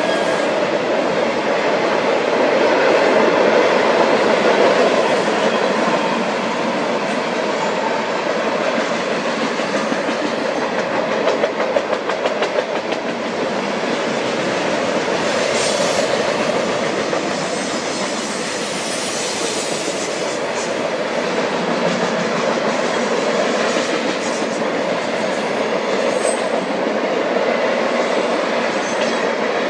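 Union Pacific freight train cars rolling past close by: a steady rumble of wheels on rail with clickety-clack over the rail joints, and a cluster of sharper clacks about twelve seconds in.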